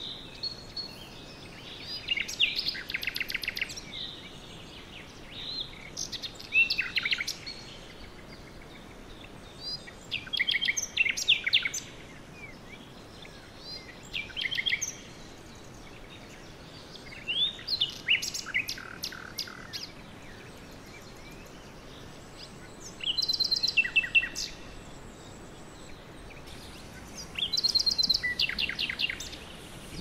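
Songbirds singing: about seven short phrases of fast trilled notes, each a second or two long with pauses between, over a faint steady hiss.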